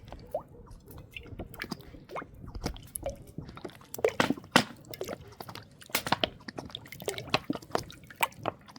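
Wet chewing and smacking of food being eaten, a quick irregular run of moist clicks and squelches.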